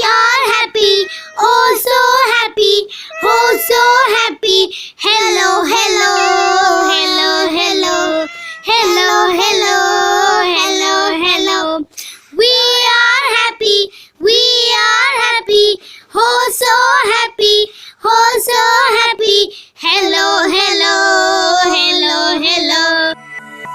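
A child singing a song in short sung phrases with brief pauses between them, stopping shortly before the end.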